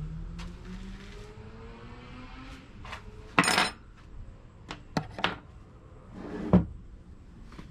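Metal tools and engine parts clinking and clanking against each other during an engine teardown: a handful of sharp knocks spread out, the loudest a short clatter about halfway through. A faint rising whine sits under the first couple of seconds.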